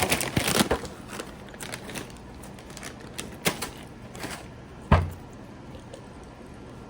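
Clicking and crackling handling noises: a dense run at first, then scattered clicks, and a single heavier thump about five seconds in.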